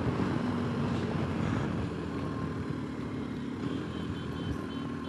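BMW R 1250 GS boxer-twin engine running under way, with wind and road noise on a helmet-mounted camera's microphone. The sound eases gradually as the bike slows.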